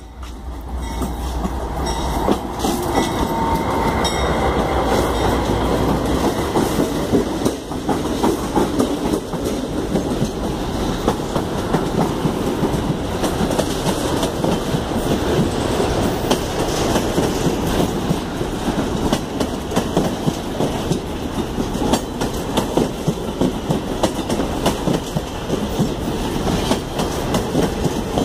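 Diesel freight train passing close by: the locomotive's engine hum in the first several seconds, then a long run of freight wagons rolling past, their wheels clicking steadily over the rail joints.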